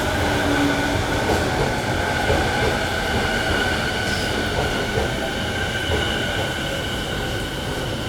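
Electric train running, heard from inside: a steady rumble of wheels on rails with a steady high whine over it.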